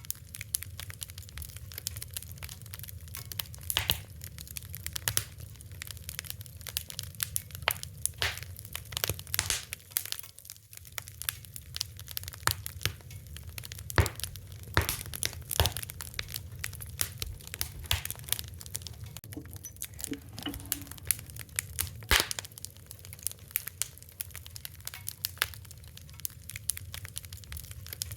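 Wood fire crackling, with frequent irregular pops and snaps over a steady low rumble of the flames.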